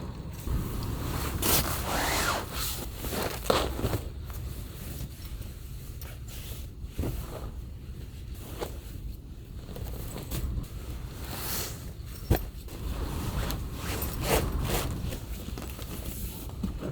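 Steady low rumble of a storm buffeting a small kei van, with irregular scrapes and rustles and a sharp knock about twelve seconds in.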